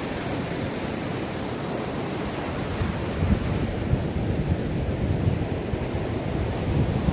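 Ocean surf washing onto a beach, a steady hiss of breaking water. From about three seconds in, wind buffets the microphone with irregular low rumbling gusts.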